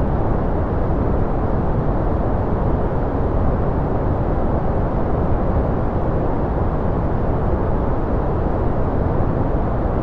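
Steady noise from a white-noise relaxation track: a deep, even rush, weighted to the low end with little high hiss, that does not change.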